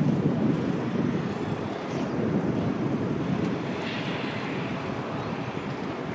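Jet airliner engine noise: a steady rumble with a faint high whine that rises and then falls in pitch around the middle.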